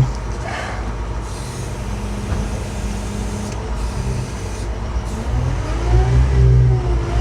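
Telehandler's diesel engine running, then revving up about six seconds in, getting louder and rising in pitch.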